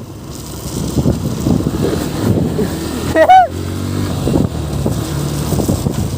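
Yamaha FZ V3's single-cylinder engine running under way, with rumbling road and wind noise. About three seconds in there is a brief pitched sound that rises and falls; it is the loudest moment.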